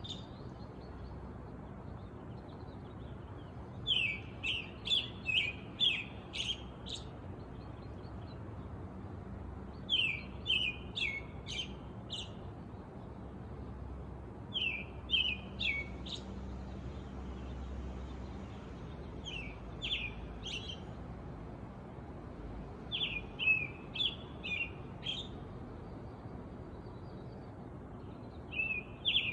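A songbird singing, repeating a short phrase of quick, sharp, downward-slurred notes about every five seconds, over a steady low background hum.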